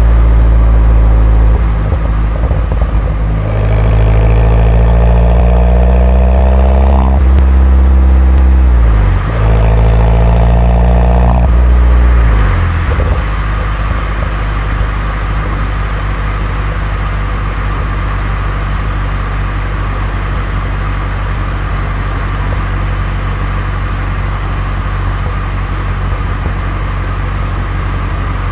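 2011 Mini John Cooper Works R57's turbocharged four-cylinder through its stock exhaust, pulling hard: the revs climb, drop at an upshift, and climb again. Then the revs fall away and the engine settles into a steady cruise for the second half.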